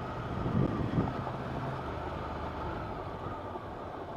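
Ducati Monster 797's air-cooled L-twin running as the motorcycle is ridden, heard with road and wind noise. The low engine note eases off about two seconds in.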